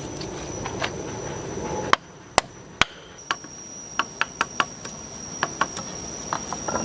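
Hand sawing of wood, a steady scraping that stops suddenly about two seconds in. It is followed by a string of sharp, irregularly spaced knocks, like hammer taps on wood. A thin, steady, high insect drone runs underneath throughout.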